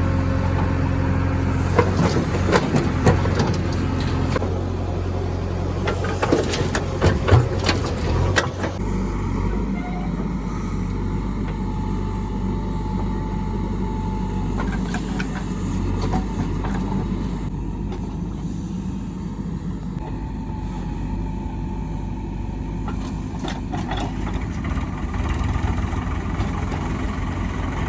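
Heavy diesel machinery engine running steadily. In the first several seconds there is a run of sharp clanks and clatter, typical of a loader bucket working.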